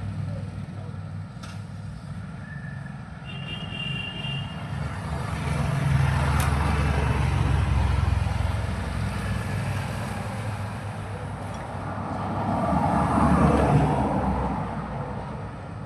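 Road traffic going by, with vehicle noise swelling twice as vehicles pass.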